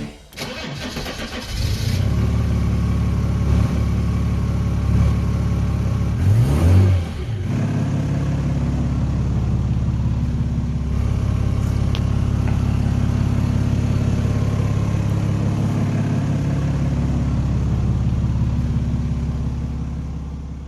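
1996 Mercedes E300D's 3-litre diesel engine running, revved briefly about six seconds in, then settling to a steady idle that fades out near the end.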